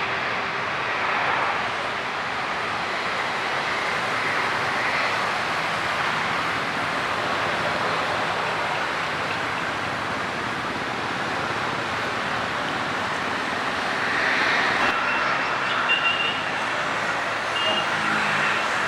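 Jet airliner engines running with a steady rushing noise. A high steady whine joins about fifteen seconds in and grows a little louder toward the end.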